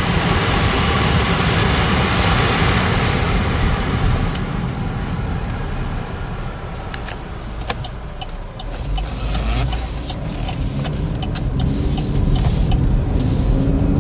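Inside the cabin of a 2013 Chevy Equinox on the move: the AC blower rushes for the first few seconds and then fades into road rumble and the hum of the 2.4-litre four-cylinder engine. Scattered clicks fall in the middle, and the engine note rises near the end.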